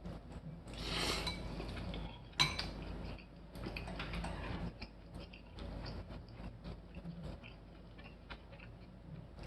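Dishes and cutlery clinking and clattering in small scattered knocks, with one sharp clack about two and a half seconds in.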